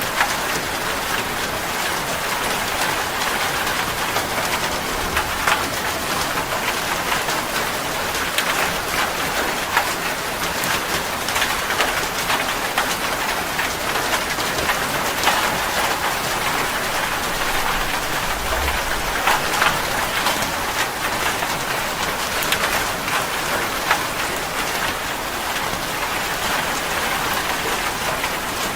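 Steady rain falling on a surface: a constant hiss with many separate drops ticking through it.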